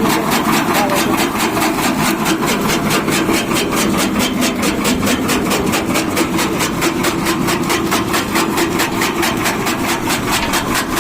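Tractor engine idling steadily, with an even knocking beat of about seven strokes a second.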